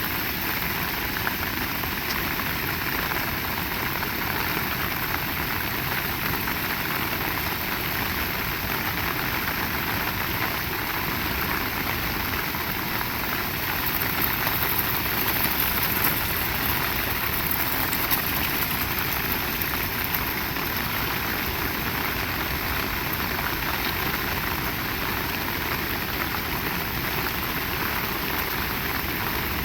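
Heavy rain pouring steadily as a dense, even hiss, swelling a little about halfway through.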